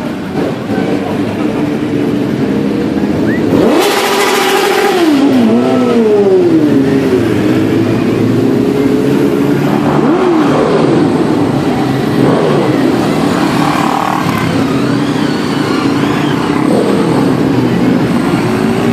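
Several motorcycle engines running and revving, their pitch rising and falling again and again as the bikes set off, with a loud burst of exhaust noise about four seconds in.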